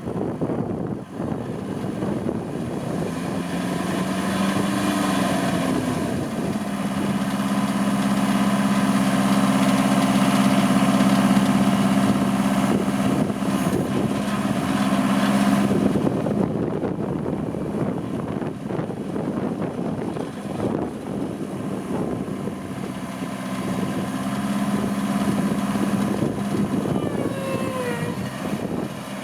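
Cabela's LM50H compact tractor engine running, revving up a few seconds in and held at higher speed, then dropping back about halfway through and picking up again near the end.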